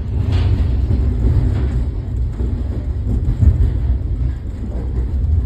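Mountain train running, a steady low rumble with no breaks.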